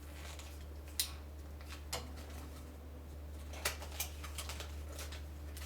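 Sharp plastic clicks and taps from handling a new 3x3 speedcube: single louder clicks about one and two seconds in, then quicker clicking from a little past halfway, over a steady low hum.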